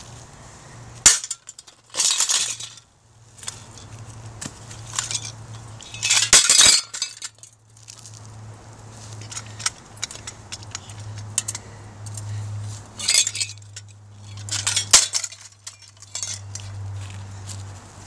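Ceiling fan being smashed: a run of clanks and clinks as its metal and glass parts are struck and break apart, with several louder crashes.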